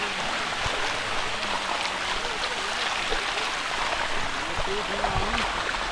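Steady rush of water flowing down a waterfall's rocky cascade.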